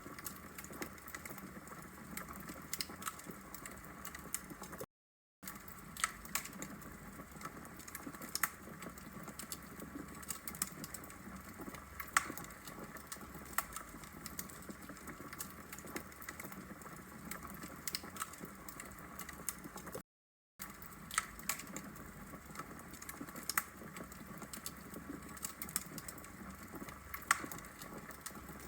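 Burning wood logs crackling: irregular sharp pops and ticks over a steady low hiss. Twice, near five and twenty seconds in, the sound drops out entirely for about half a second.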